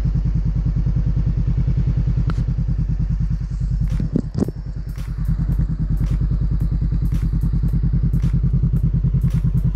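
Honda CBR500R's parallel-twin engine running at low revs with a steady, even pulse while the bike creeps forward on the clutch. There is a brief knock about four seconds in.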